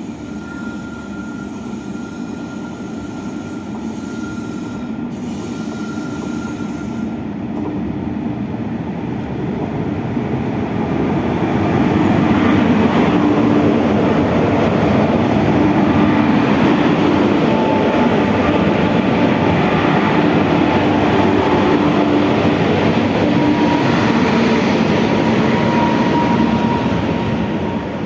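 A heavy freight train hauled by electric locomotives (three WAG-7s and a WAG-9HC) rolling past on steel rails, with a dense rumble of wheels and a steady hum. It grows louder over the first twelve seconds or so, stays loud, and eases off near the end.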